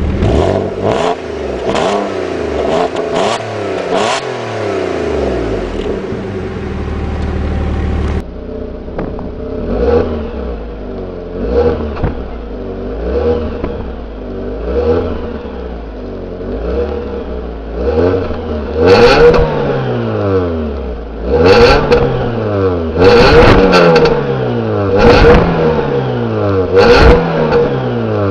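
Car engines revved repeatedly through their exhausts in exhaust sound tests. First come quick blips; then, after a change of recording about eight seconds in, a series of revs rises and falls every second or two. The revs grow louder in the last third, with sharp pops at their peaks.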